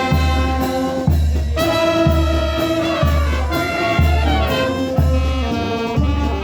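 Brass band music with trumpets and trombones playing sustained chords over a steady bass beat about once a second.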